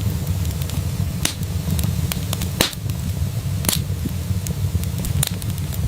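Wood fire burning in a fireplace: a steady low rumble of flames with sharp, irregular crackles and pops, two of them louder, a bit before the middle and just after it.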